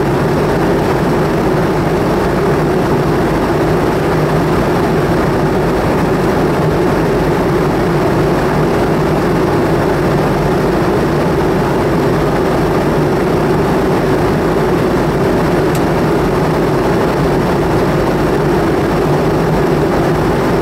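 McDonnell Douglas MD-90 airliner's rear-mounted V2500 turbofan engines, heard inside the passenger cabin as a steady, even drone with a low hum under a rushing noise.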